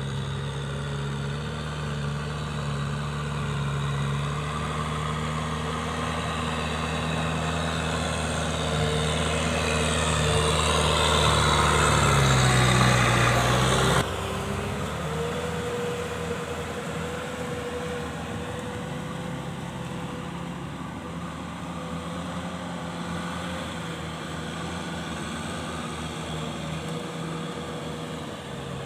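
Kubota M6040SU tractor's diesel engine running, growing steadily louder, then dropping suddenly about halfway through to a quieter, steady run.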